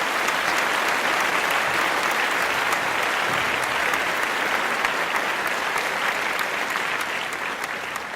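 Audience applauding steadily, beginning to fade out near the end.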